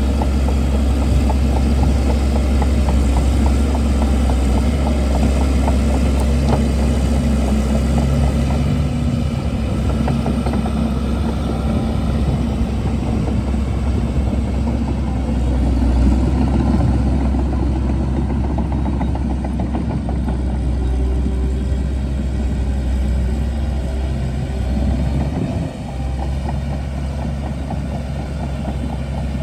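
Shantui DH17C2 bulldozer's diesel engine running steadily under working load, with a dense rattle over the low drone. The loudness dips briefly near the end.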